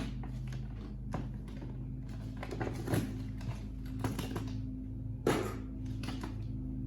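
Cardboard and packaging being handled and tugged as a stuck boxed part is worked free: scattered rustles and knocks, the loudest a little after five seconds in, over a steady low hum.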